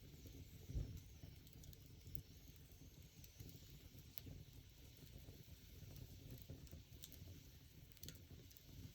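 Wood fire crackling faintly, with occasional sharp pops a second or more apart and a low thump about a second in.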